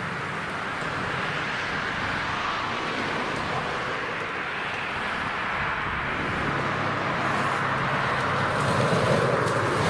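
SUV engine running under off-road driving, with a steady rushing noise over it. The engine note grows stronger and louder in the last few seconds.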